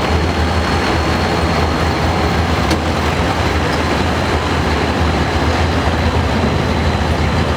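Pulling tractor's engine running loud and steady, a dense low rumble with heavy mechanical noise.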